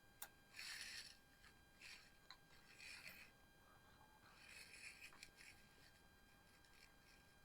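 Near silence, with a few faint short scratchy rustles and small clicks about one, two, three and five seconds in.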